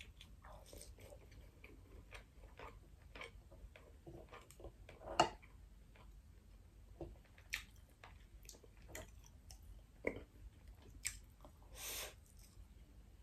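Close-miked chewing and wet mouth sounds of a person eating salmon and rice, with scattered small clicks; the sharpest click comes about five seconds in.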